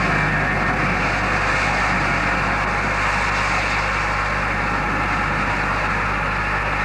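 Steady rushing noise from a Mikado steam locomotive and its train, even throughout with no distinct exhaust beats.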